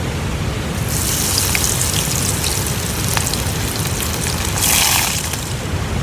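Wild-plant tempura frying in hot oil: a sizzling hiss with small crackles that swells about a second in and is loudest around five seconds, over a steady low rumble.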